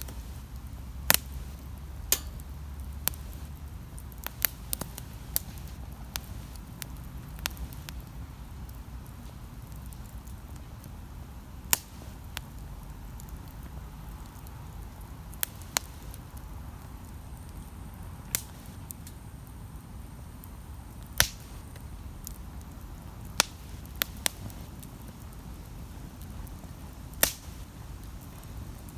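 Wood campfire crackling, with sharp pops at irregular intervals of one to a few seconds over a low, steady rumble.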